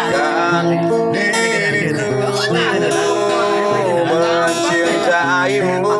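Acoustic guitar strummed under a sung vocal line in a slow Indonesian pop song.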